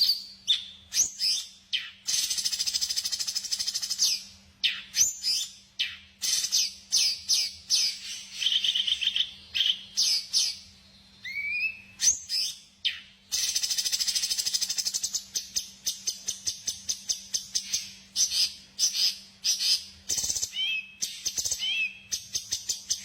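Songbird singing in long, rapid chattering trills and high twitters, broken by a few short rising whistles, over a faint steady hum.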